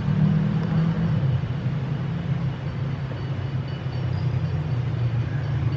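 Steady low rumble of a motor vehicle engine running, with faint thin high chirps in the background during the second half.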